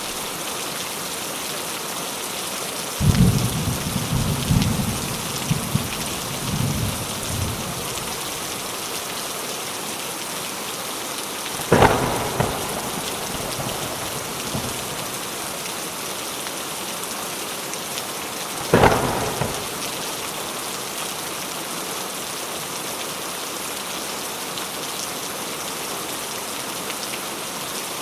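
Steady rain hissing throughout. A low rolling rumble of thunder comes in about three seconds in and lasts a few seconds, and two sharp thunderclaps follow later, about seven seconds apart.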